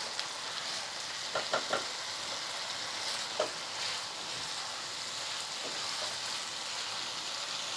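A vegetable sabzi sizzling steadily in a kadhai as it is cooked down until dry, with a wooden spatula stirring it. A few short clicks of the spatula on the pan come about a second and a half in, and one more just past three seconds.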